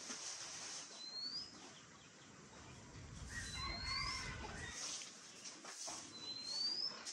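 A bird calling three short rising whistles, about two and a half seconds apart. In the middle a faint drawn-out distant call sounds over a low rumble, and a broom brushes softly on the concrete floor.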